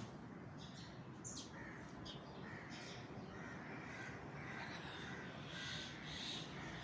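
Birds calling: a run of short, repeated calls, with a quick high note about a second in.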